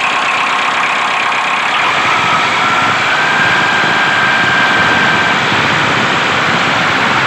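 A motor running steadily: a dense, even mechanical noise with a faint high whine that rises a little about three seconds in.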